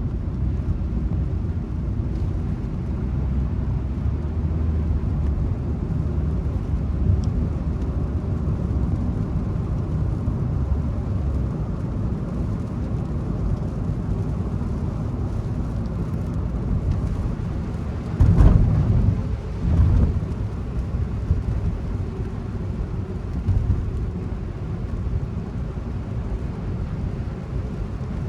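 Steady low rumble of a car driving, heard from inside the cabin, with two louder low thumps close together about two-thirds of the way through.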